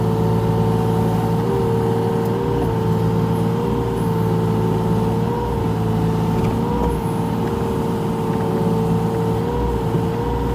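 Mini excavator's engine running under load with a steady hydraulic whine that rises briefly in pitch several times as the controls are worked.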